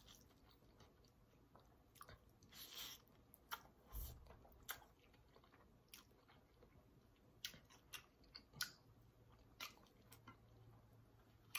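Faint close-up chewing of spicy instant noodles, mouth noises broken by scattered small clicks, with a soft thump about four seconds in.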